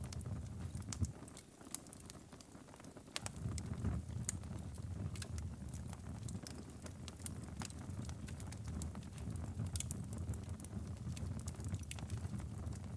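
Wood fire crackling, with scattered sharp pops over a low steady rumble; the rumble drops away about a second and a half in and returns about three seconds in.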